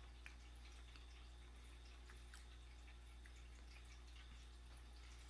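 Near silence: a steady low hum of room tone with a few faint, soft clicks of a cookie being chewed with the mouth closed.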